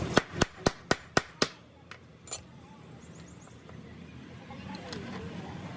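A quick run of about seven sharp knocks, about four a second, then two fainter ones, then only a low background hum.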